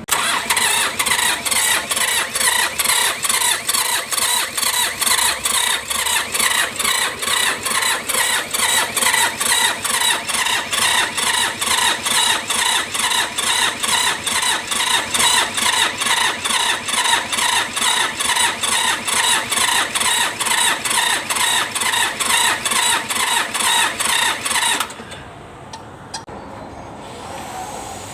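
Mitsubishi K3E three-cylinder diesel being cranked by its starter, an even pulsing of about two to three beats a second with a whining squeal, for about 25 seconds without catching. The cranking then stops. This is the hard starting that the mechanic traces to worn pistons and rings.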